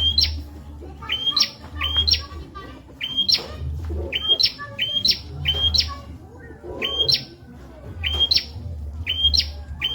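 Prenjak (prinia) calling in a fast, insistent series of sharp chirps, mostly in pairs, each a short note that jumps steeply upward in pitch. There are about two calls a second, with a short pause near the middle.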